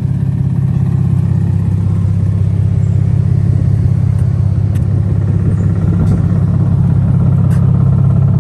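A loud car exhaust rumbling at low speed as the car pulls up: a steady deep drone that grows slightly louder.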